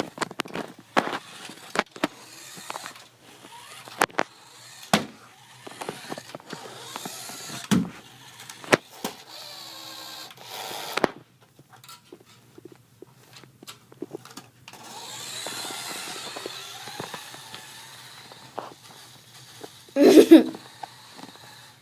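Toy remote-control car's small electric motor whirring in spurts, with scattered knocks and clatter from its wheels and body bumping on the floor. There is a louder burst about twenty seconds in.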